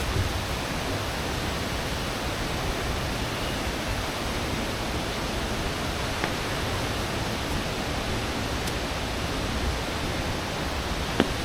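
Steady, even rushing noise spread across low and high pitches alike, with a single faint click near the end.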